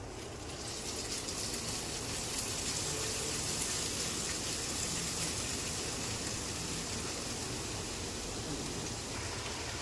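Boiled noodles sizzling in hot oil in a wok as they are dropped in, along with frying onion and garlic. The steady hiss swells about a second in and eases slightly near the end.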